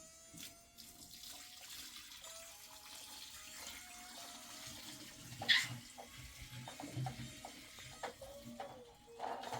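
Water running and splashing, with small knocks and one sharp knock about five and a half seconds in.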